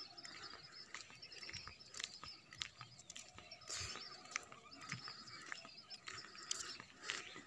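Faint outdoor ambience: birds chirping in the distance, with scattered light clicks.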